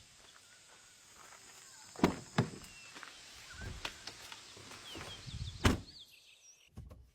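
A few sharp thunks, two close together about two seconds in and another near six seconds, over faint outdoor background noise.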